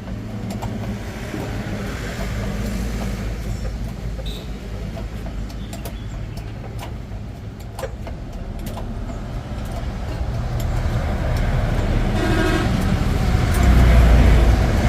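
A vehicle engine running with a steady low rumble that grows louder toward the end, with a few scattered clicks and a brief horn-like toot about twelve seconds in.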